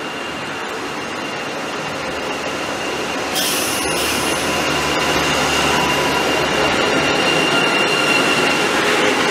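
Hyundai Rotem HEMU-430X high-speed train rolling slowly along a station platform, a steady rolling and running noise with a thin high whine through it. A hiss comes in sharply about three seconds in.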